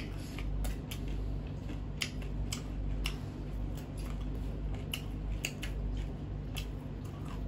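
Close-miked eating sounds: sharp wet clicks of chewing and mouth smacks, one or two a second at uneven intervals, over a steady low hum.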